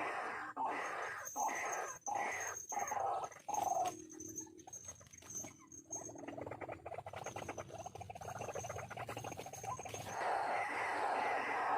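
White-breasted waterhen calls: a croaking note repeated about twice a second. About four seconds in it gives way to a rough, rapid rattling stretch, and the repeated notes return near the end.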